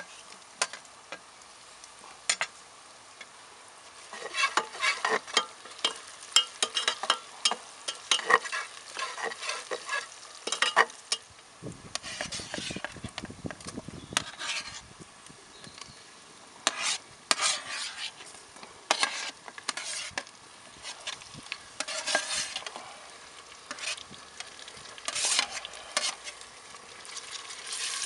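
Onions frying in oil in an aluminium pot, with a metal spatula scraping and clicking against the pot and tray. About halfway through there is a brief rush of noise as chopped tomato is slid in from the metal tray, and the sizzling grows louder near the end as it is stirred.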